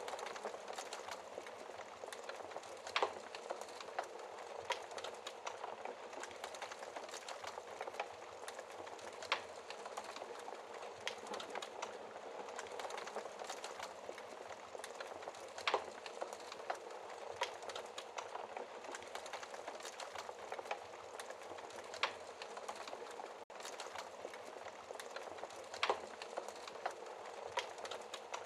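Wood fire burning in a fireplace: a steady soft hiss of flames under constant small crackles, with a sharper, louder pop of the burning wood every few seconds.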